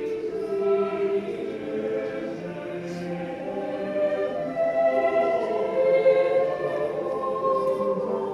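Choir singing held chords in several voice parts, the notes sustained and moving together.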